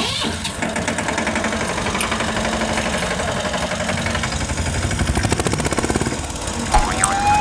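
Tractor engine running with a steady, even beat. Near the end a siren starts, rising in pitch.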